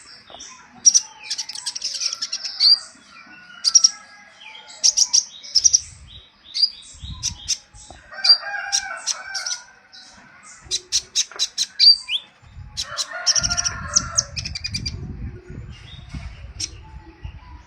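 Konin birds chirping and calling in quick, sharp, high-pitched bursts and short trills, used as a lure call for young konin. Lower warbling calls come in twice, and wing fluttering with low rumbling runs through the last few seconds.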